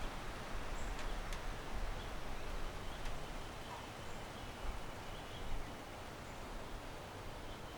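Backyard ambience: a steady hiss of wind and rustling trees with a low rumble underneath, faint high bird chirps, and a few small clicks in the first few seconds.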